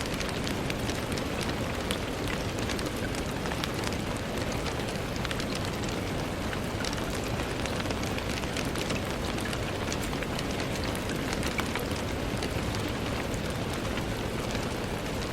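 Steady rain on a window: an even, constant hiss scattered with many small, sharp drop ticks.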